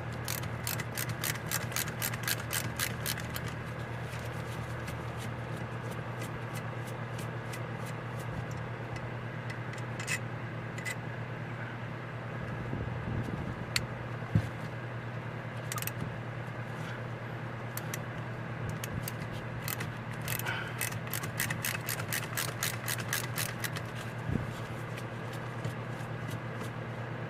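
Rapid clicking of a ratcheting hand tool backing screws out of a carburetor, in two runs of a few seconds each, at the start and again about twenty seconds in. A couple of sharp knocks come near the middle, over a steady low hum.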